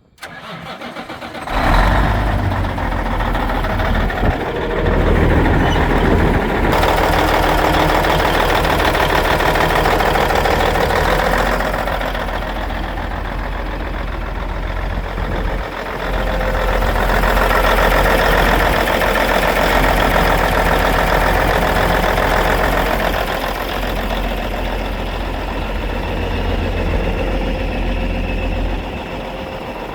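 White truck tractor's engine starting about a second and a half in, then idling steadily, getting somewhat louder and quieter a few times.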